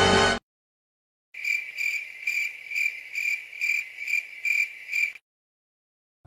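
Cricket chirping sound effect: a high, even chirp repeating about twice a second for about four seconds, the stock 'awkward silence' gag. It follows a short break after a music clip cuts off abruptly near the start.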